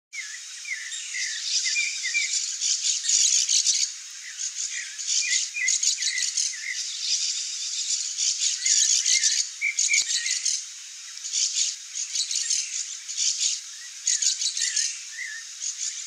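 Small birds chirping in short, quick notes over a high buzzy trill that comes in repeated bursts of about a second or two.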